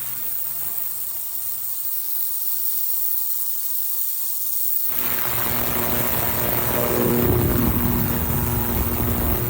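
Ultrasonic parts cleaner running with a steady buzzing hum as it cleans a varnished carburetor in water and Simple Green. About five seconds in the sound changes abruptly and becomes louder and fuller.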